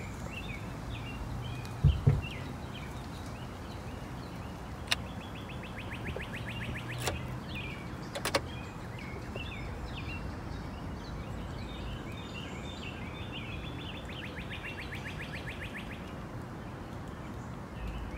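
Small birds chirping and calling throughout, with two fast rattling trills. A couple of dull thumps come about two seconds in, followed by a few sharp clicks.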